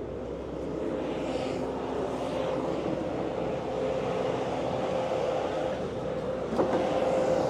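A vehicle engine running steadily, with a single knock about six and a half seconds in.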